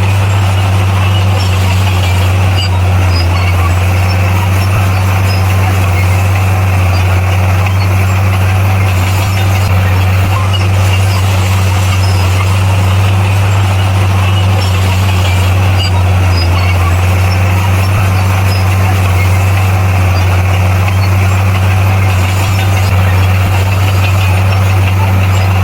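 Bulldozer's diesel engine running at a steady speed, a constant low drone that neither rises nor falls.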